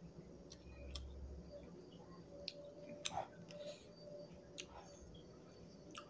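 Faint close-up eating sounds of a person eating rice and curry with his fingers: chewing with wet lip smacks and scattered small clicks, the sharpest about three seconds in.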